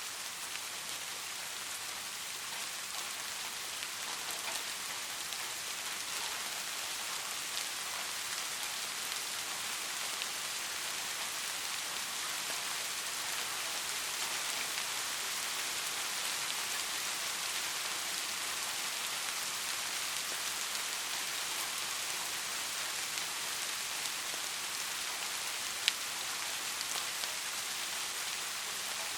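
Steady rain falling: an even hiss of countless raindrops with scattered drop ticks, and one sharper tap near the end.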